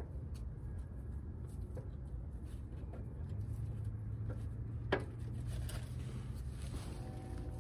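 Hand work on the engine's front end while the harmonic balancer is fitted provisionally: a few light clicks and one sharp metallic knock about five seconds in, over a low steady hum.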